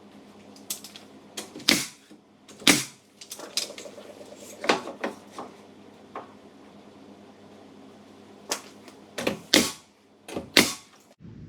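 A series of irregular sharp clicks and knocks with gaps between them, a few much louder than the rest, over a faint steady low hum.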